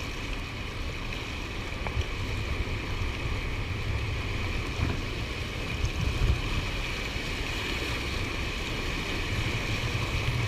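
Steady rush of water pouring through a dam spillway, with gusty wind rumbling on the microphone and a couple of brief bumps.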